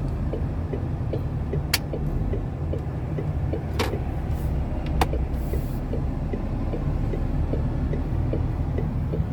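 Semi-truck's diesel engine running and road noise, heard from inside the cab while driving, with a few sharp clicks.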